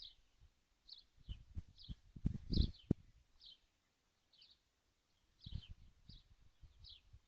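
A bird chirping: short high calls, each falling slightly in pitch, repeated about twice a second, with soft low knocks and thumps in between.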